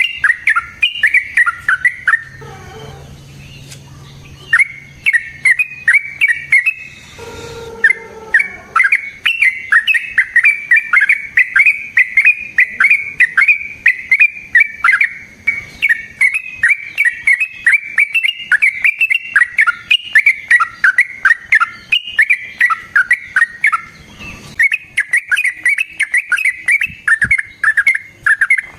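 Yellow-vented bulbul singing: a long run of rapid, bubbling repeated notes that breaks off briefly a couple of seconds in and again about seven and twenty-four seconds in.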